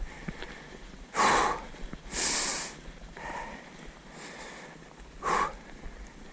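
A cyclist breathing hard from exertion: a few loud, noisy breaths spaced about a second apart, the loudest about a second in, another just after two seconds and one near the end.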